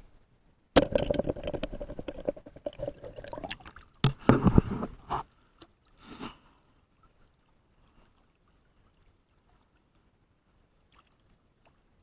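River water sloshing and gurgling close to the microphone in two bursts, the first starting suddenly about a second in and the second about four seconds in, with a smaller splash a little later.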